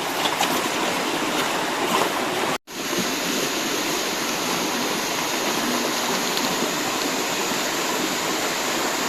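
Steady rush of flowing river water, with a short cut to silence about two and a half seconds in.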